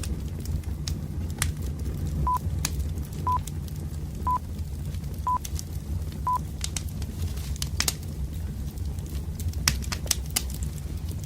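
Campfire of burning logs crackling, with sharp pops over a low steady rumble. About two seconds in, five short high electronic beeps sound one a second, a timer counting down.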